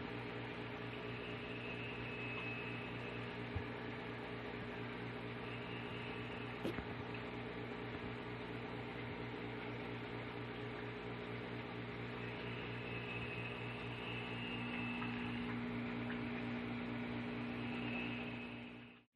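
A steady low mechanical hum with a hiss behind it, like a motor or fan running, and a faint high whistle coming and going. Two small clicks land about three and a half and about six and a half seconds in.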